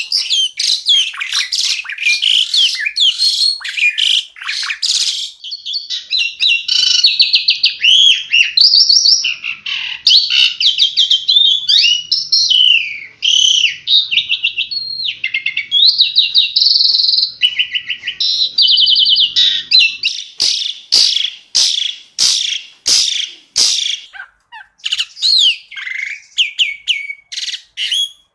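Asian pied starling (jalak suren) singing a loud, varied song of fast chattering chirps and warbled whistles. Past the middle comes a run of sharp, clipped single notes, about two a second, before the varied phrases return.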